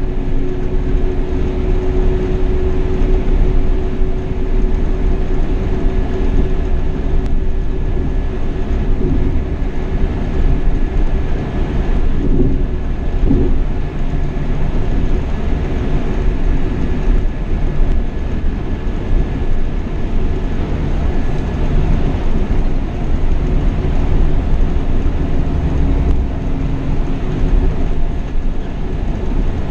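Steady driving noise inside a Marcopolo Paradiso 1800 double-decker coach on a Scania K420 chassis at cruise: continuous low road rumble with a steady hum, even throughout.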